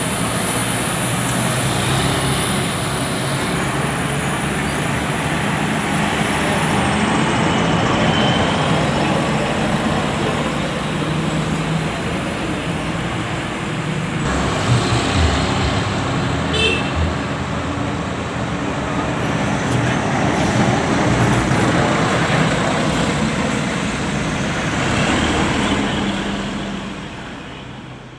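Road traffic with bus and truck engines running and passing, over steady road noise. The sound changes abruptly about halfway through and fades out at the end.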